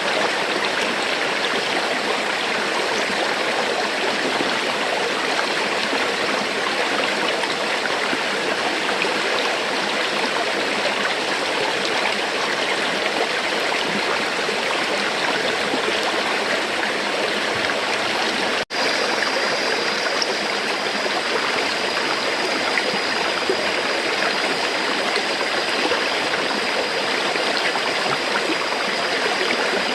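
River water flowing steadily, an even rushing noise with no pauses, broken once about two-thirds of the way through by a split-second dropout in the recording.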